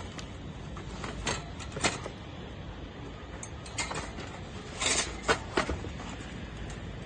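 Handling noises: a series of sharp clacks and knocks, about six in all, with a short scraping sound near the middle, over a steady low hum.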